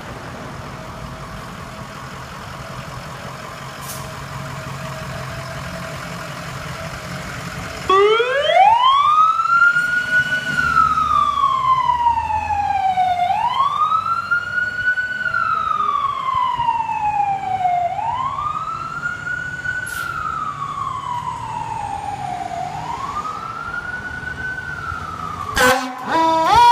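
A fire truck's engine rumbles steadily. About eight seconds in, a Federal Q2B mechanical siren starts and winds up quickly, then coasts down slowly, in four repeating rise-and-fall cycles. Near the end there is a brief break, then a higher, steadier siren tone.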